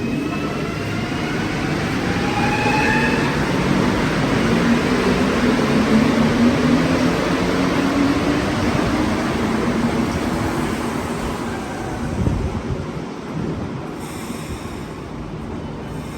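Montreal Metro rubber-tyred train moving through the station. Its motors whine in several rising tones as it picks up speed, and its running noise swells to its loudest about six seconds in, then fades.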